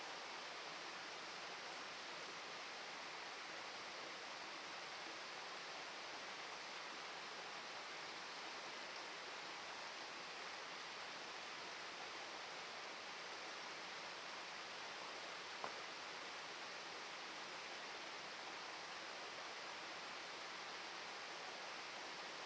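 Steady rushing of flowing river water, with one faint click about two-thirds of the way through.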